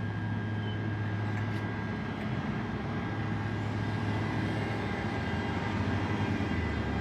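A train running at a station, with a steady low drone and a few steady higher whining tones that grow slowly louder as it comes closer.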